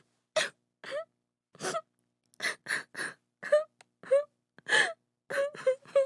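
A woman sobbing: a quick run of short, broken gasping sobs and catches of breath, about two or three a second, several with a small rise or fall in pitch.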